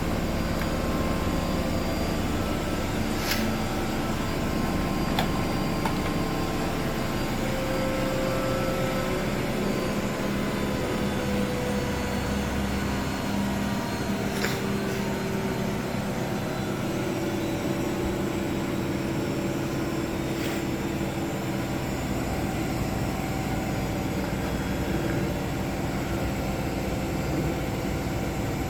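Two Miele front-loading washing machines, a Vitality W427 and a Novotronic W971, running together in their final spin: a steady motor and drum hum with several tones that drift in pitch, and three faint sharp ticks.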